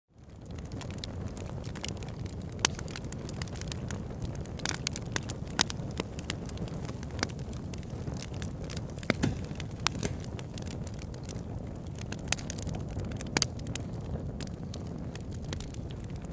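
Wood fire in a fireplace crackling: many sharp snaps and pops, a few of them louder, over a steady low rush of burning. The sound fades up from silence at the very start.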